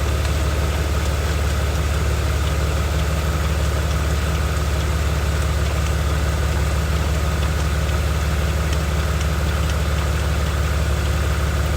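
BMW 330xi's 3.0-litre straight-six engine idling steadily with a constant low hum, run while the automatic transmission's fluid level is checked after a fluid and filter change.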